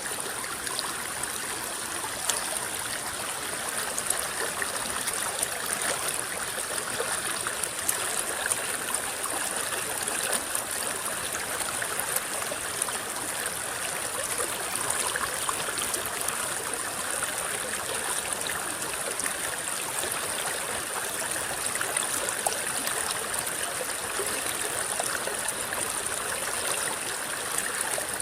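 River water rippling and babbling steadily over its bed, with many tiny splashes and drips.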